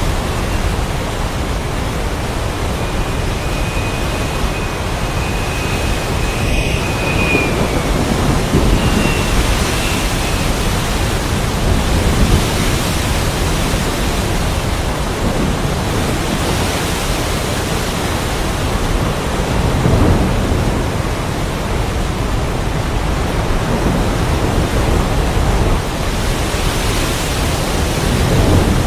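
Heavy rain and wind pouring steadily, with low thunder rumbles swelling up a few times. A thin high whistle sounds for a few seconds near the start.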